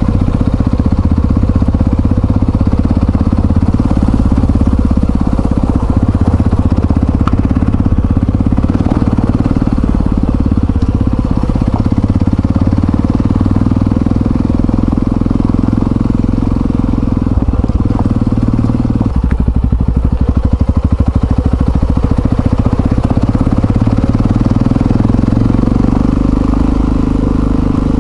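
Yamaha XT660Z Ténéré's single-cylinder engine running steadily as the motorcycle is ridden, its note shifting about two-thirds of the way through and again near the end.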